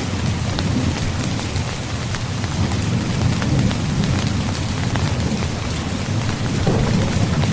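Steady rain drumming on a tent's fabric, with fine patters of individual drops over a low, fluctuating rumble that swells near the end.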